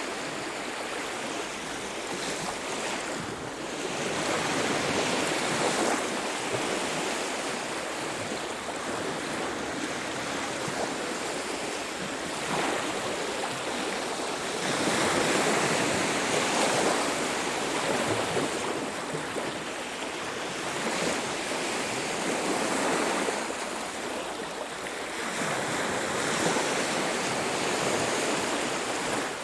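Ocean surf breaking and washing up a beach: a continuous rush of water that swells louder every few seconds as each wave comes in, then eases.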